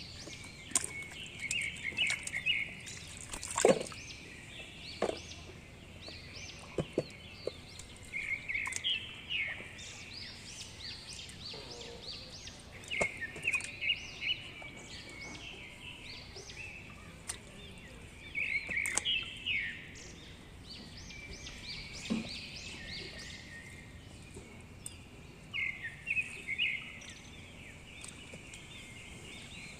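Small birds chirping outdoors in short twittering bursts every few seconds, over a steady background hiss, with a few sharp clicks or knocks scattered through.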